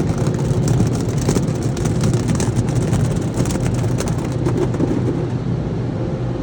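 Car wash machinery running: a steady low hum with a spattering crackle over it that thins out about five seconds in.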